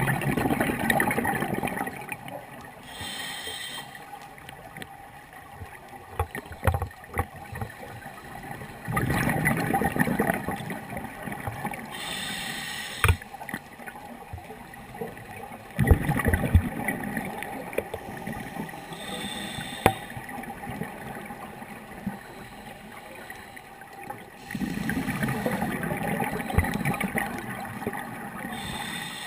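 Scuba diver breathing through a regulator underwater. There are four bubbling exhalations, about seven to eight seconds apart, each followed a few seconds later by a short hiss of inhalation, with scattered small clicks.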